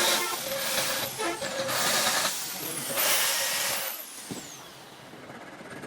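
Three short blasts of hissing pressurised gas, each about half a second to a second long and each trailed by a faint falling whistle, then quieter workshop background.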